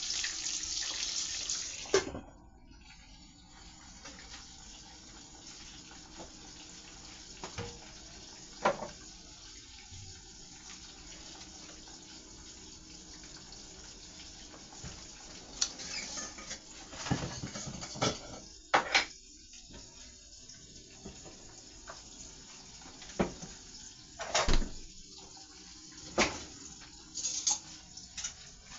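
Kitchen sounds. A loud steady hiss cuts off with a clunk about two seconds in. A faint steady hiss follows, broken by scattered clinks and knocks of pots and utensils.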